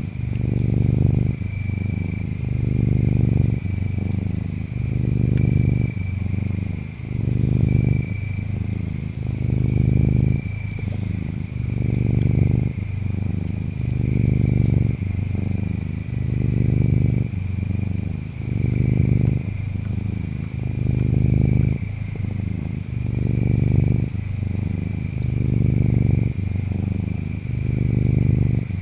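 Domestic cat purring, swelling and fading with each breath about every two seconds. Insects chirp under it: a steady pulsing trill and, every few seconds, clusters of very high chirps.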